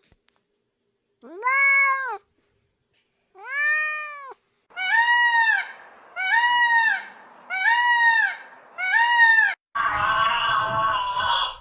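Domestic cat meowing six times, each an arched, drawn-out meow of about a second: two spaced apart, then four in quick succession. A different, rougher sound takes over near the end.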